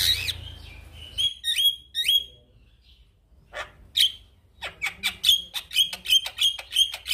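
Male Javan myna (jalak kebo) singing: a harsh call, then three quick rising whistles, then a fast run of short, sharp chipping notes.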